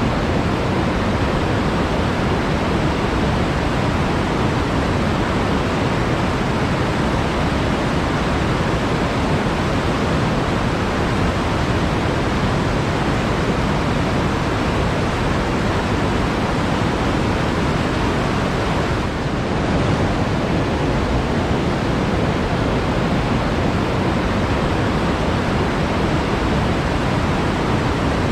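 Flowing water in a forest stream, a steady, unbroken rush.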